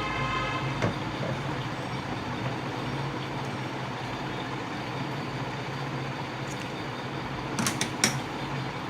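Steady background hum and hiss, with a car horn's tail at the very start and a few sharp clicks near the end.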